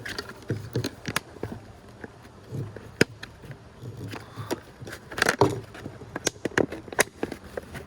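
Irregular sharp plastic clicks and crackles, with one louder click about three seconds in and a quick run of them around five seconds, as a 3D-printed guide-rail ring is forced down onto a worn plastic soda bottle.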